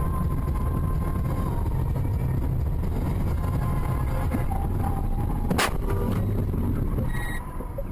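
Steady road and engine rumble of a moving car, with one sharp bang about five and a half seconds in.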